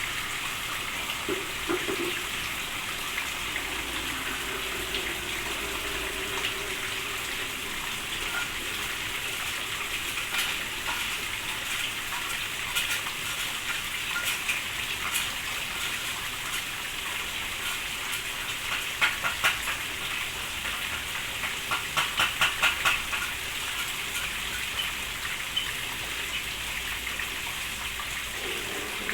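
Steady rain falling, an even hiss. About two-thirds of the way in it is broken by a couple of sharp clicks and then a quick run of about six sharp pulses.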